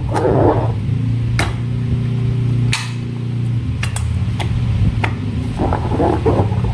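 Slime and rubber balloons being handled: a wet squish at the start and again near the end, with a few sharp clicks in between over a low steady hum.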